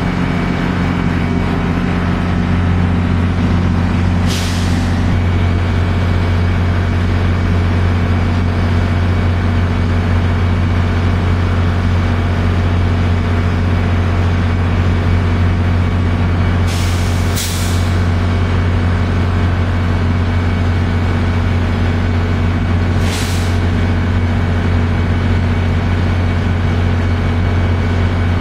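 Deep, steady hum of passenger trains standing at the station, broken by short sharp hisses of air released from the brakes: one a few seconds in, two in quick succession past the middle, and one more later.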